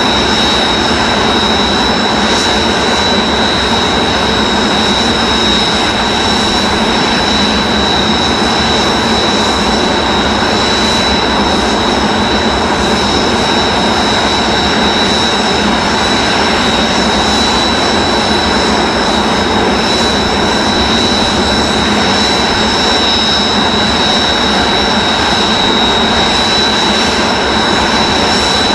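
Several Kawasaki T-4 jet trainers' twin turbofan engines running steadily together after start-up. There is a loud continuous rush with a steady high-pitched whine.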